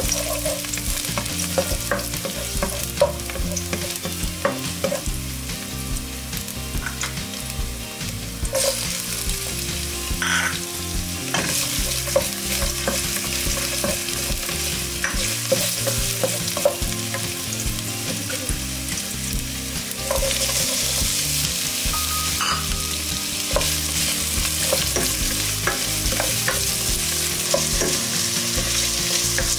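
Garlic, ginger and onion sizzling in hot oil in a pan while a spatula stirs them, with small clicks and scrapes of the spatula against the pan. The sizzle gets louder about two-thirds of the way through.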